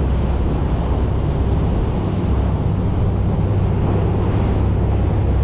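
A motorboat's engine running steadily under way, a constant low drone, with water rushing past the hull and wind buffeting the microphone.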